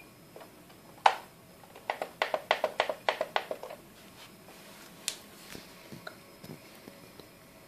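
A sharp click, then a quick run of about ten clicks or taps at roughly six a second, then another click and a few fainter taps.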